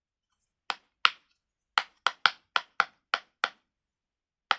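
Silicone pop-it fidget toy bubbles being pressed through one after another: about ten sharp pops in a quick, irregular run, with a pause of about a second near the end.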